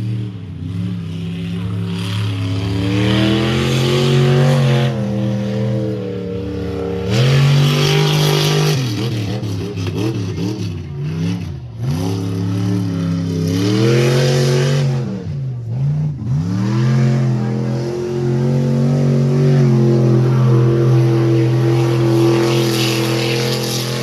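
Rally truck's engine revving hard through a run. Its pitch climbs, drops sharply three times with gear changes or throttle lifts, climbs again each time, and holds high near the end.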